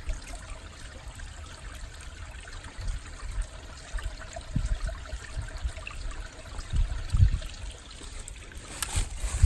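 Small woodland stream trickling steadily, with a few low rumbles on the microphone around the middle and about seven seconds in.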